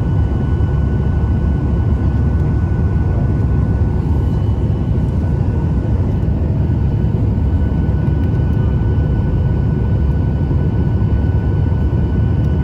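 Steady jet cabin noise inside a Boeing 737-800: a low, even rumble of engines and airflow with a thin steady whine on top.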